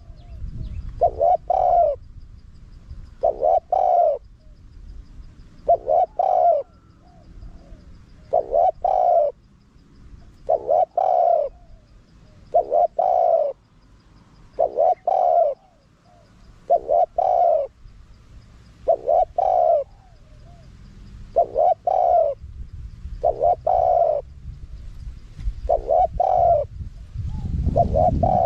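Spotted dove cooing: a short call phrase repeated steadily about every two seconds.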